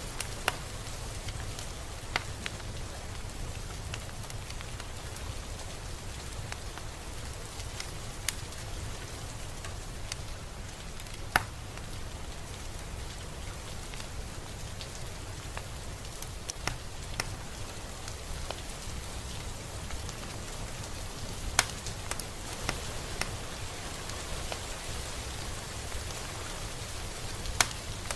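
Steady rain falling, a continuous hiss with a low rumble underneath and scattered louder drips striking a surface every few seconds.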